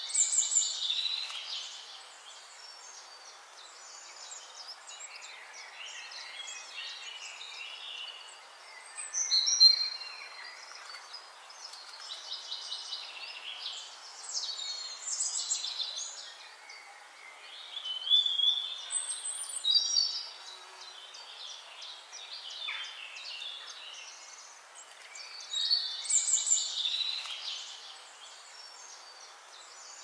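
Birdsong: bursts of high chirping song from several birds, repeating every few seconds, over a steady background hiss.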